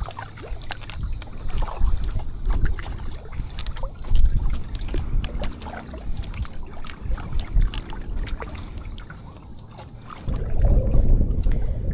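Kayak paddle strokes splashing, with water lapping and trickling against the hull of a Pelican Argo 100X kayak. Wind rumbles on the microphone throughout and grows stronger about ten seconds in.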